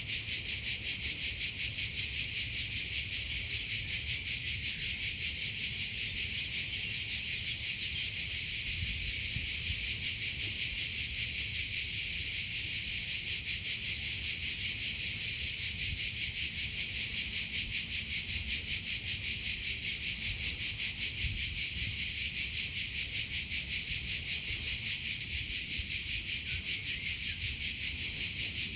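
Cricket chirping steadily in a fast, even pulse of high-pitched chirps, several a second.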